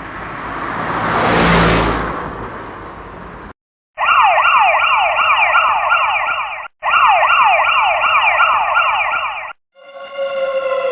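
A noisy whoosh that swells and fades, then two bursts of an electronic siren sound effect, rapid falling sweeps repeating about four times a second. A sustained synthesizer chord begins near the end.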